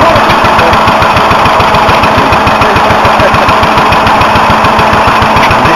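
Stationary engine running steadily, with a rapid, even exhaust beat.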